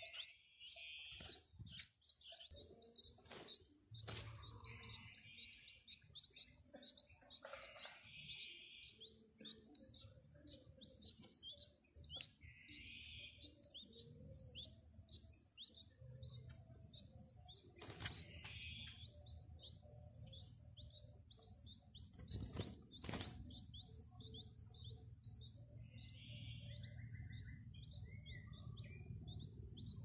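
Small birds chirping rapidly and continuously in short high-pitched calls, several a second, over faint background music. Two sharper, louder clicks cut in, a little past the middle and again about three-quarters of the way through.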